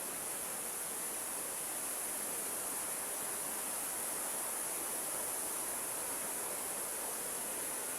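Steady, even hiss of running water, unchanging throughout.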